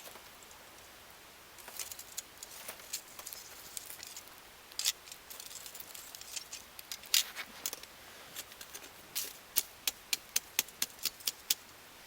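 Wood campfire crackling, with scattered sharp pops and snaps that come thicker and faster near the end.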